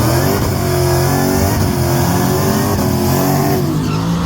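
A V8 car engine pulling hard at high revs in a drag run, with a loud rush of exhaust. The pitch holds high, then drops near the end.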